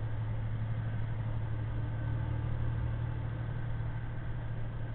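Semi-truck's diesel engine and road noise droning steadily inside the cab while driving, with a strong, even low hum.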